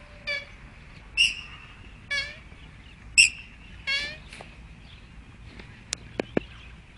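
Bird calls about once a second, five in all, with two different kinds of call taking turns, followed by three sharp clicks near the end.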